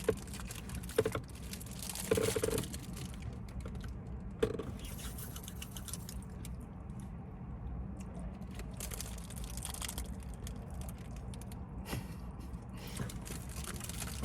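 Close-miked eating sounds, mostly chewing of a honey bun with small clicks and taps, scattered through the first few seconds and again near the end, over a steady low hum.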